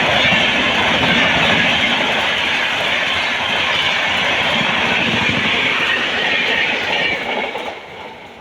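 A train running past close by: a loud, steady rush of wheel and rail noise that falls away quickly near the end as the train clears.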